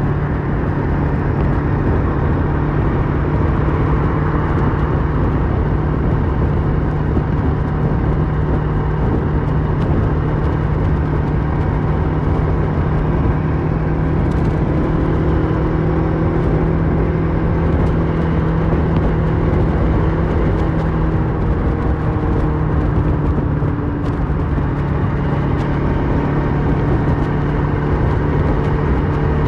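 Kawasaki Versys 650's parallel-twin engine through a Mivv slip-on exhaust, heard from the saddle while riding at a steady cruise. The engine note holds one pitch, with a brief dip in pitch about four-fifths of the way through.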